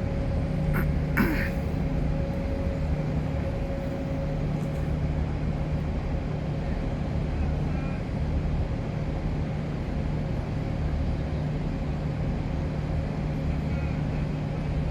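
Steady low mechanical hum, like an engine or generator running, with a few brief clicks about a second in.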